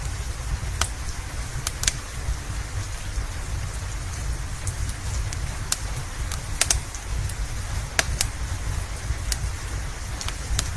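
Steady rain with a deep low rumble underneath, broken by sharp irregular pops and crackles of a wood fire, roughly one a second.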